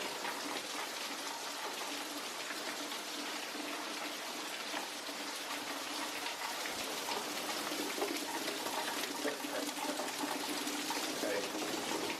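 Heavy rain falling steadily, a constant even hiss of water.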